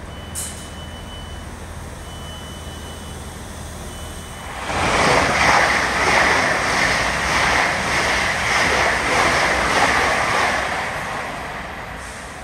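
A passenger train passing through the station at speed on the nearby line: it sweeps in suddenly about four and a half seconds in as a loud rushing noise with a quick rhythmic clatter of wheels over the rails, then fades away near the end. Before it arrives there is a steady low hum and a high tone sounding in three short spells.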